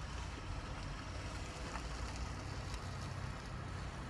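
Steady low rumble with a faint even hiss over it, with no distinct events.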